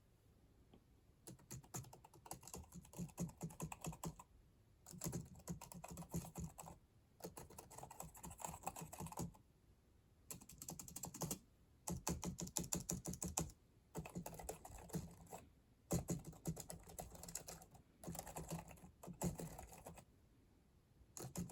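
Typing on a Macally slim wireless membrane 'silent' keyboard: soft key clicks in quick runs of one to three seconds, broken by short pauses.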